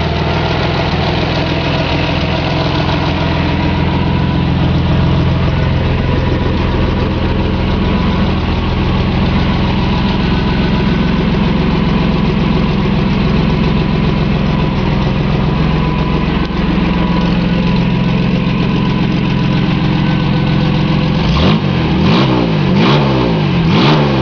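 Ford 2.8 V6 swapped into a 1974 Mazda pickup, idling steadily, then revved in several quick blips near the end.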